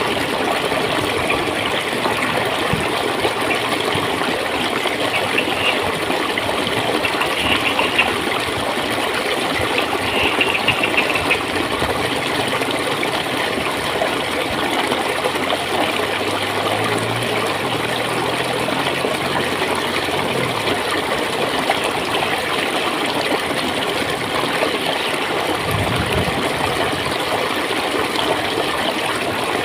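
A stream of clear water flowing and gurgling steadily.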